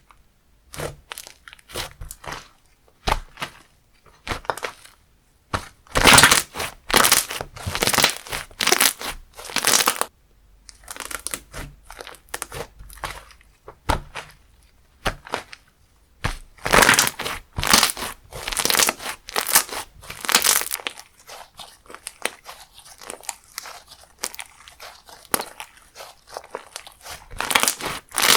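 Slime being squeezed, stretched and poked by hand, giving irregular bursts of crackling and popping as trapped air bubbles burst, with quieter stretches in between.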